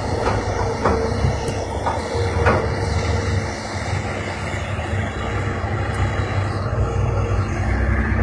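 Heavy diesel earthmoving machinery running steadily, with a few sharp metallic clanks about one and two and a half seconds in.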